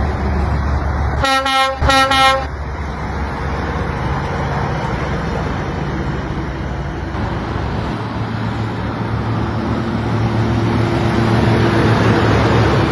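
Two short blasts of a vehicle horn, one right after the other, about a second and a half in. Under them a motor vehicle's engine runs with road noise, growing louder in the second half.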